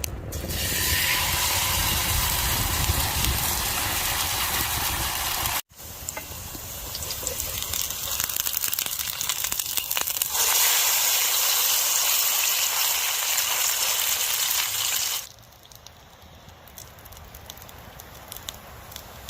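Steady rushing noise, changing abruptly between sections: a brief dropout about five and a half seconds in, a brighter, louder stretch after about ten seconds, and a much quieter stretch near the end.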